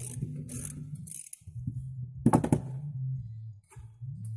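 Threaded metal end plug of a collapsible steering tie rod being unscrewed with a wrench, giving a grinding, scraping run of metal on metal. Several sharp metallic clinks come about two seconds in as the loosened steel parts knock together.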